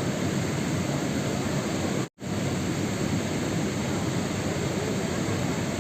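Steady rain-sound noise, a dense even hiss with no single drops standing out, cut by a momentary dropout to silence about two seconds in.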